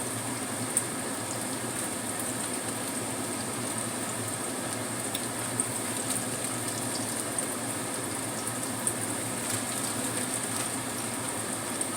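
Tofu pieces sizzling in hot oil in a frying pan: a steady hiss with a few small pops.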